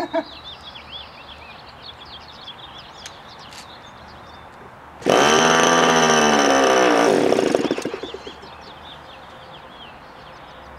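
An OS .46AX two-stroke nitro glow engine is cranked over and buzzes loudly for about three seconds, starting about five seconds in. It then sputters and dies without catching, a sign that it isn't getting fuel. Birds chirp faintly in the background.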